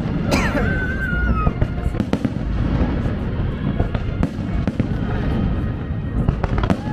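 Fireworks display: a continuous deep rumble of booms with many sharp crackling bangs over it.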